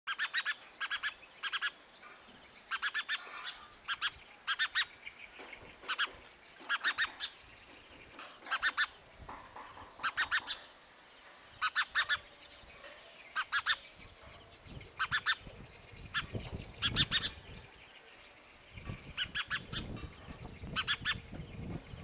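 Small sparrow-like songbird calling: short chirps in quick groups of two to four, repeated every second or two. A low rumble joins in during the second half.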